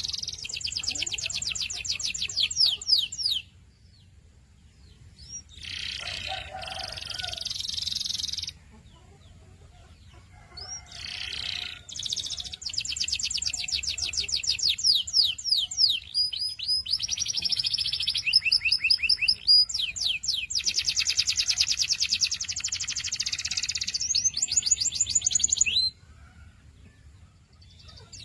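Domestic canary singing in long phrases of rapid, evenly repeated high notes (trilled rolls), some of them sliding in pitch. The phrases are broken by short pauses.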